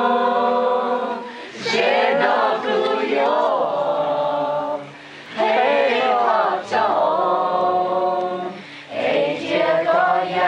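A group of people singing together, holding long notes in phrases of a few seconds with short breaks between them.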